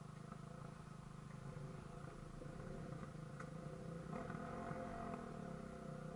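Dirt bike engine idling, a steady low running note whose revs rise and fall slightly about four seconds in.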